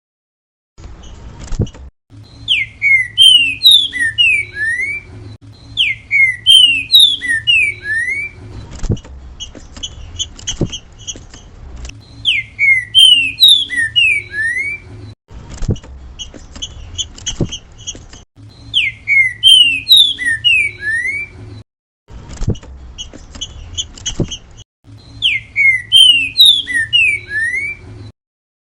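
Green-winged saltator (trinca-ferro) singing its 'grego mole boi' song. A short phrase of clear, slurred whistles repeats five times, about every six seconds, with softer quick chirping notes between the phrases.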